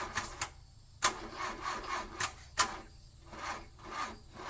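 Scratchy rubbing and rustling noises broken by a few sharp clicks, the loudest about a second in and two more a little after two seconds: handling noise.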